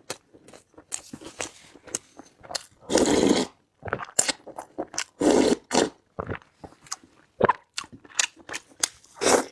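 Close-miked eating: a quick run of sharp crunching bites and wet chewing clicks, with louder half-second crunches about three, five and nine seconds in.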